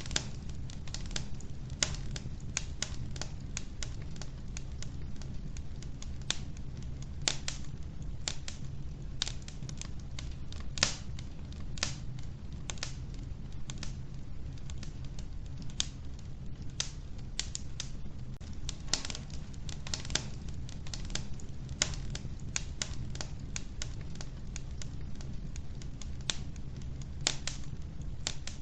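Logs burning in a wood-burning stove, crackling with irregular sharp pops several times a second over a low, steady rumble of the fire.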